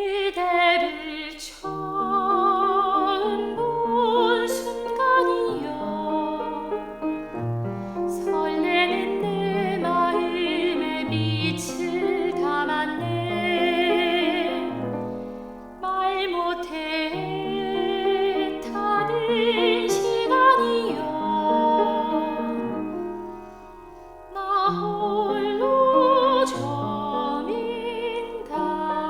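Classical-style singing with a wide vibrato over instrumental accompaniment, in phrases that break off briefly about 16 and 24 seconds in.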